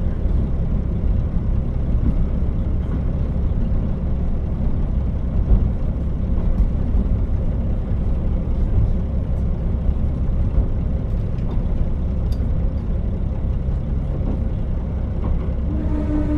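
KiHa 40 diesel railcar running, a steady low rumble of its diesel engine and wheels on the rails. Near the end a pitched tone with overtones comes in.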